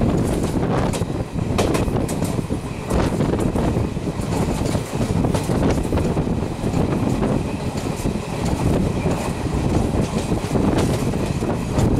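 Duronto Express passenger train running through a station at speed, its coaches rumbling past with wheels clicking over the rail joints.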